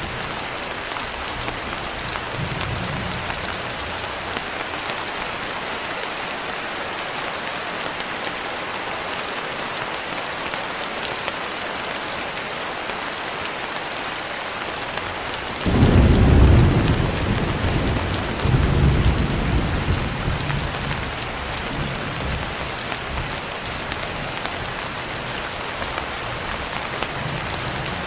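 Steady rain falling. About halfway through a clap of thunder breaks in suddenly and rolls on as a low rumble, swelling once more before it fades away a few seconds later.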